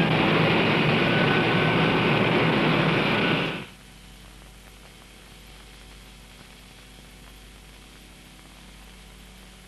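Steady aircraft engine noise, an even rush, stops about three and a half seconds in, leaving a faint hiss and low hum.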